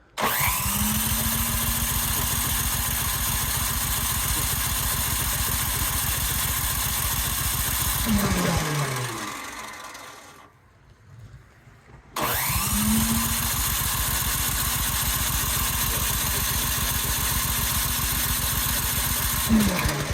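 A Cub Cadet 528 snowblower's four-stroke engine is cranked by its electric starter twice, each time for about eight seconds. The engine turns over in a fast, steady rhythm, then the starter winds down with a falling whine when the button is let go. The engine does not catch despite priming and full choke, which the owner thinks may be a plugged carburetor jet.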